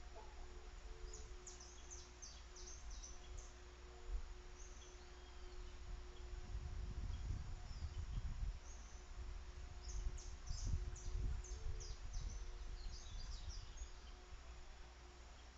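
Wild birds calling outdoors: a quick series of short, high chirps, then a second, longer series past the middle, over a faint steady hum. Low rumbles come twice around the middle.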